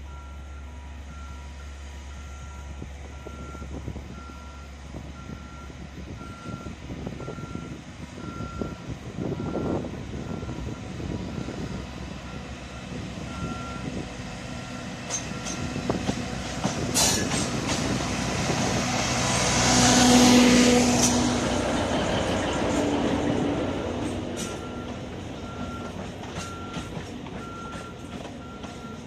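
Alishan Forest Railway train running past close by, swelling to its loudest about two-thirds in and then fading, with some high squealing. A repeating electronic warning beep sounds steadily underneath for most of the time.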